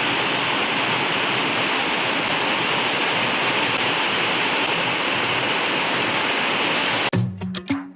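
Steady rushing of running water, like a tap or shower left running. It cuts off abruptly about seven seconds in, and music with a beat takes over.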